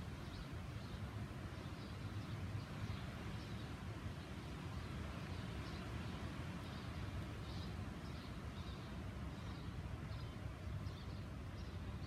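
Faint, short, high bird chirps, one or two a second, over a steady low background rumble.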